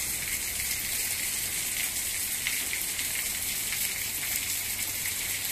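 Rain falling: a steady hiss with a dense patter of drops.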